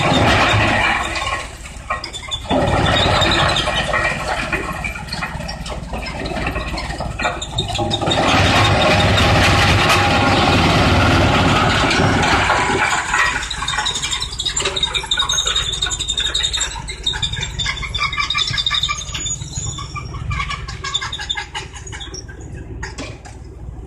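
Industrial wood pallet shredder running: a steady low machine hum under dense, uneven cracking as wood is broken up. The loudness shifts every few seconds.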